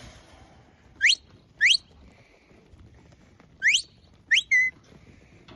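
A sheepdog handler's whistled commands to a working dog: sharp, quickly rising whistles, two about half a second apart, then after a pause another two, the last ending on a short held note.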